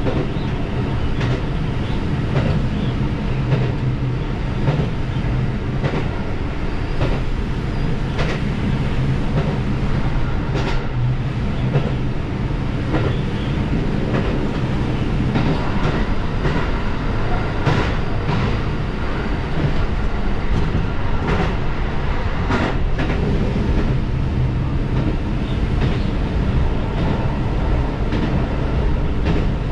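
Diesel railcar running along the line: a steady low engine drone under the rumble of the wheels, with wheel clicks over rail joints at irregular intervals.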